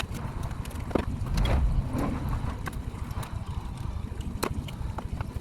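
Scattered metal clanks and knocks over a low rumble: workshop work lifting an engine out of a car with an engine crane.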